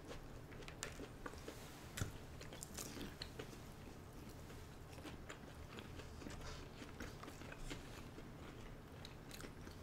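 Faint chewing and mouth sounds of people eating sushi rolls, with scattered small clicks and taps, the most distinct about two seconds in.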